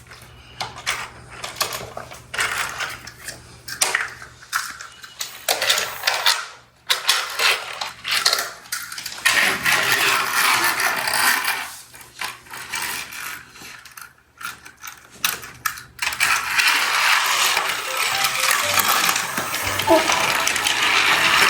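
Toy train pieces clicking and clattering as they are handled, a string of irregular small hard knocks and rattles. A steadier sound takes over near the end.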